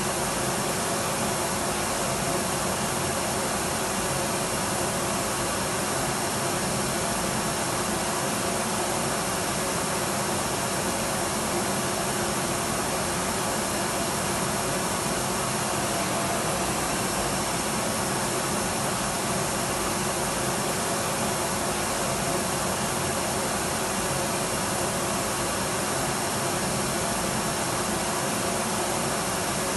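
Electric vacuum cleaner running continuously at a steady pitch: an even, unchanging motor whir and airflow hiss with faint steady tones.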